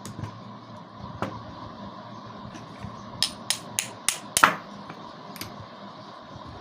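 Hammer tapping a new 608 ball bearing down onto a vacuum cleaner motor's armature shaft, the blows landing on an old bearing used as a driver. Sharp taps: single ones near the start and after about a second, then a quick run of five between about 3 and 4.5 seconds in, the last of these the loudest, and one more near the end.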